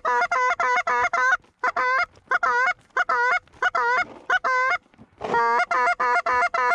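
Goose call blown by a hunter in fast strings of honks and clucks, about five a second, broken by short pauses: calling to a flock of Canada geese circling back toward the spread.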